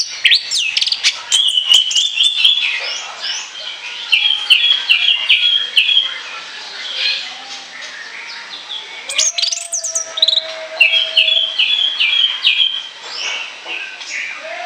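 Orange-headed thrush singing a long, varied song of rapid chattering phrases, repeated again and again, with a lower held note about two-thirds of the way through.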